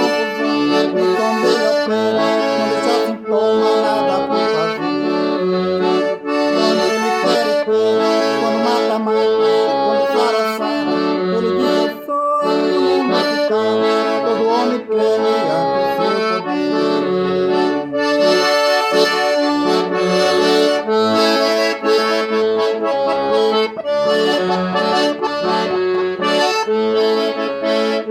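Accordion playing an instrumental tune, with held melody chords over regularly repeating bass notes.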